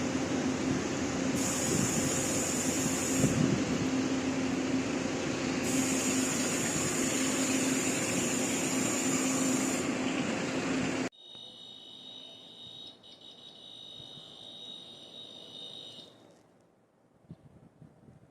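Train running loudly with a steady low engine tone and intermittent high hiss. About eleven seconds in it cuts off abruptly to a much quieter passage carrying a steady high-pitched electronic tone, which stops a few seconds later.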